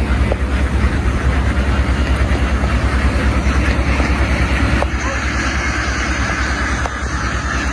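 An engine running steadily at constant speed, a loud low rapid thrum under a hiss of noise.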